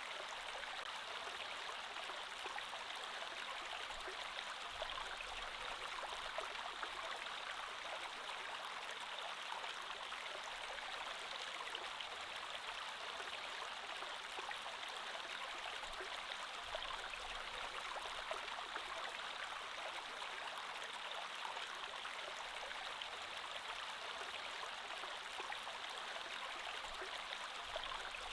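A creek flowing steadily over rocks, an even rush of water with fine bubbling and splashing.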